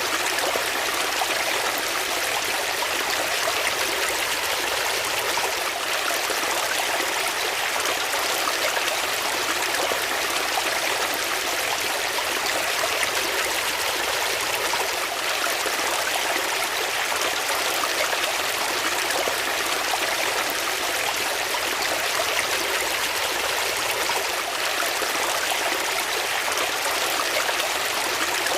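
Water flowing in a stream, a steady even rush with no breaks.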